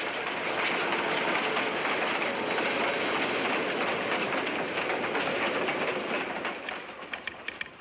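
Steam train running along the rails with a dense, steady clatter, fading from about six seconds in. Near the end it gives way to rapid, sharp clicks of a telegraph sounder.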